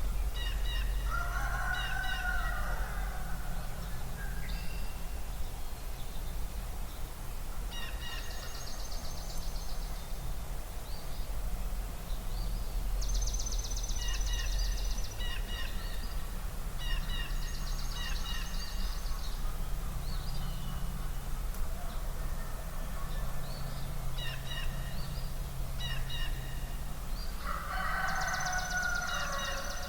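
Spring dawn chorus at a marsh: several songbirds repeat short songs and high buzzy trills. A large fowl gives a loud, lower call twice, about a second in and again near the end. A steady low rumble runs underneath.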